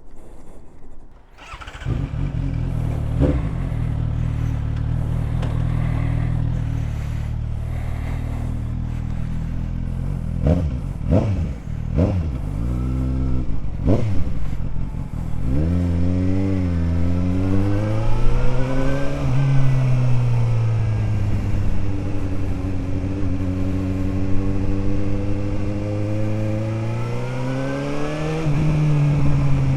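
Suzuki GSR750 inline-four motorcycle engine with an aftermarket Ixrace Z7 exhaust. After a quiet second or so it idles steadily, is blipped sharply a few times with the throttle, then pulls away, its pitch rising and falling with the revs.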